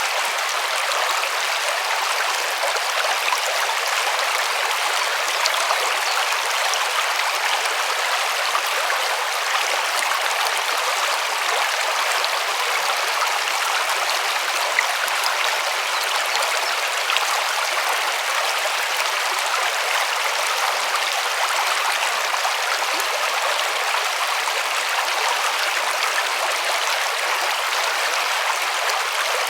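River water rushing and splashing steadily over rocks, an even hiss of flowing water with little low rumble.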